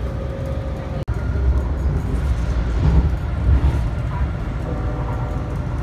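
Steady low rumble with a faint engine whine, cut off abruptly twice as if by edits.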